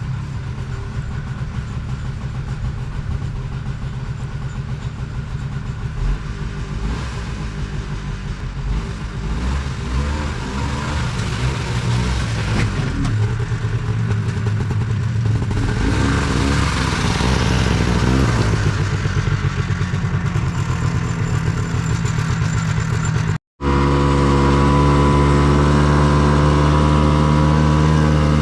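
A small 277cc engine running, its speed wavering unevenly. After a brief break near the end it runs at a steady, even speed.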